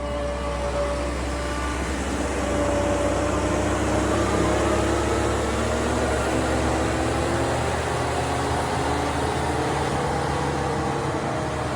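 New Holland C362 skid steer's diesel engine running steadily, with a whine that slowly wavers in pitch.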